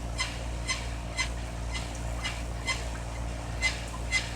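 Unidentified signal heard through a radio receiver in AM mode: a string of short, sharp chirps, about two a second, over a steady background hiss and hum.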